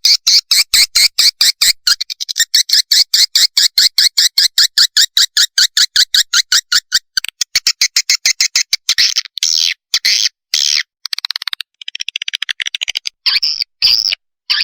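Recorded edible-nest swiftlet chick calls: a rapid, evenly spaced train of high chirps, breaking after about seven seconds into separate twittering calls with short gaps. It is a swiftlet lure recording, played to draw swiftlets into a nesting house.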